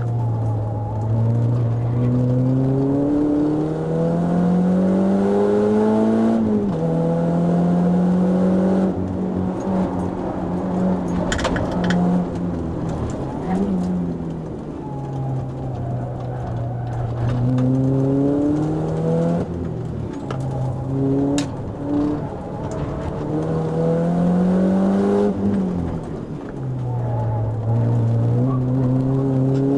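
Renault Clio RS four-cylinder engine heard from inside the cabin under hard track driving. The revs climb and drop sharply at upshifts, sag as the car slows into a corner, and there is a brief rev blip about halfway through. A couple of sharp clicks stand out over the engine.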